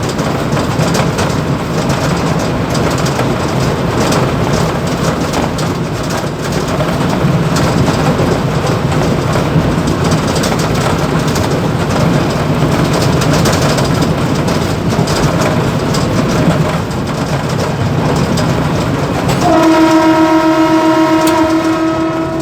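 Mumbai local electric multiple-unit train running at speed, heard from the motorman's cab: a steady rumble with rattling and clicking. Near the end a train horn sounds one steady note for about three seconds.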